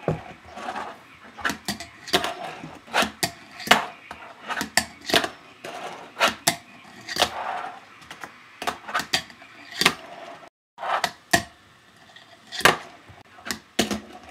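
Fingerboard tricks: sharp clacks of the small board's tail popping and its trucks and deck landing on a hard surface, one to three a second at an uneven pace, with the little wheels rolling in between.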